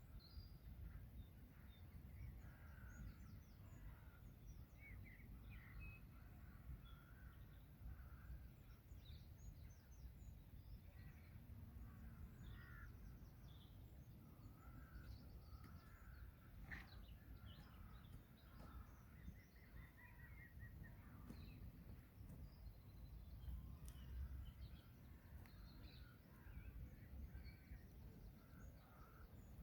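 Faint birdsong by a pond: many short, scattered chirps and calls from several birds, with a quick run of repeated notes about twenty seconds in, over a low steady rumble.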